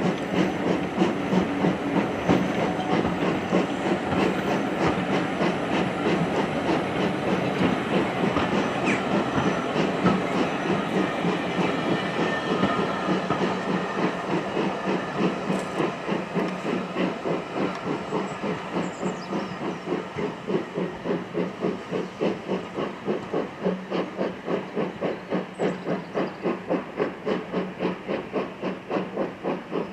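Steam locomotive working a train: an even rhythm of exhaust beats over hissing steam, slowly growing fainter.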